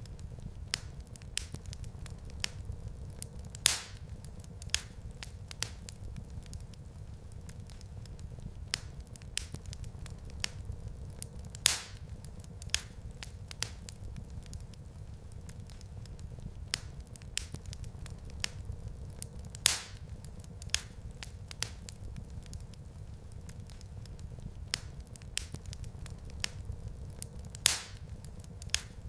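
Wood fire crackling in a fireplace: scattered sharp crackles and snaps over a steady low rumble, with a louder pop about every eight seconds.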